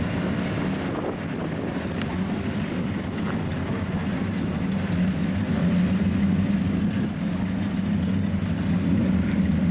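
Racing car engines running in a steady drone that swells slightly in the second half.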